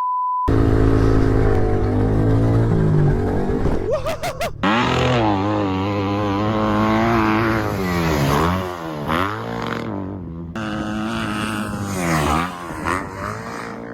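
Dirt bike engines revving and running, the pitch rising and falling again and again, across several hard edits. A short one-tone beep sounds at the very start.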